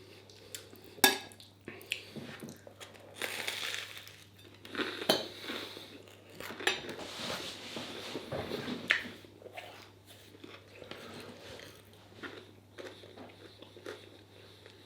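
Cutlery clinking and scraping on a plate while a mouthful of stir fry is chewed, with a few sharp clicks, the loudest about a second in.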